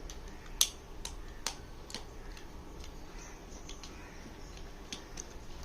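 Sharp metallic clicks from a screw being tightened into the carburetor body. Four strong clicks come about half a second apart in the first two seconds, then fainter, irregular ones follow.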